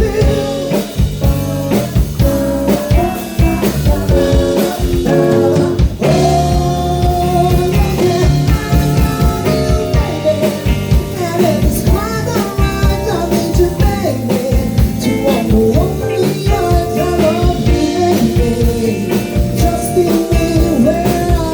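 Live band playing a passage with no lead vocal, the music changing about six seconds in.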